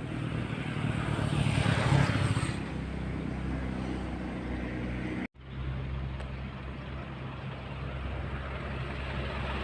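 Road traffic: a vehicle engine running steadily, with a louder swell of a vehicle passing about two seconds in. The sound cuts out for an instant just past halfway, then the steady engine hum resumes.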